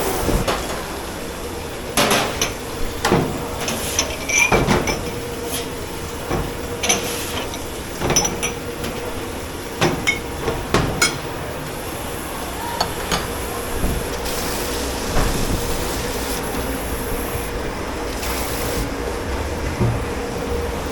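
Dishes, pots and metal utensils clattering and knocking as they are handled and stacked, with sharp clanks in the first dozen seconds and fewer after, over the steady hum of kitchen machinery.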